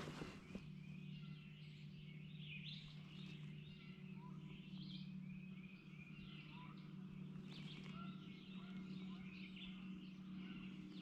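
Faint chorus of small birds chirping and singing, many short calls overlapping, over a steady low hum.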